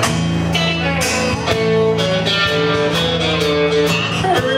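Live band playing an instrumental passage before the vocals, guitars strumming and picking held chords over a steady beat.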